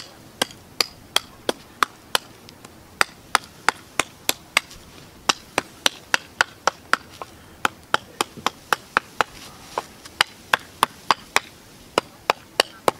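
Hatchet chopping a notch into a hardwood stake on a chopping block: quick, sharp strikes, about three a second, in short runs with brief pauses between them.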